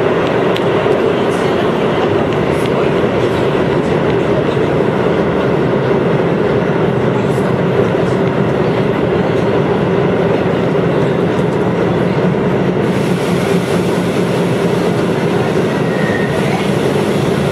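Chiba New Town Railway 9000 series electric train running, heard from on board: a steady rolling rumble of wheels on rail. About 13 seconds in the sound turns suddenly brighter and hissier.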